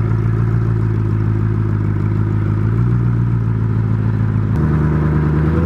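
Koenigsegg Regera's twin-turbo V8 idling steadily at low speed. About four and a half seconds in, the engine note steps up to a slightly higher, steady pitch.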